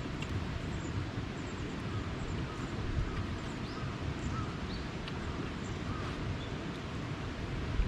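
Outdoor ambience: a steady low rumble with a few short, faint bird calls now and then.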